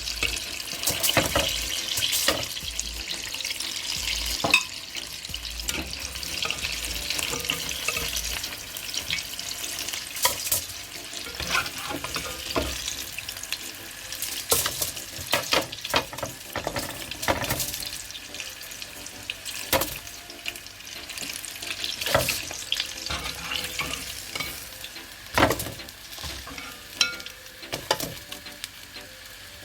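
Flour-coated chicken wings deep-frying in a pot of hot oil: a steady sizzle, broken by frequent sharp pops and clicks.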